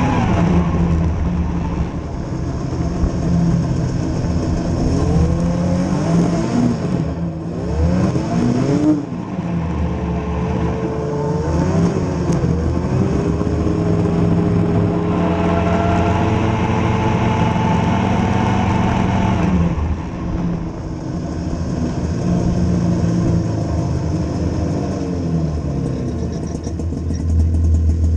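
A vehicle's engine running under way, its revs rising and falling several times, then holding steadier for a few seconds before dipping again.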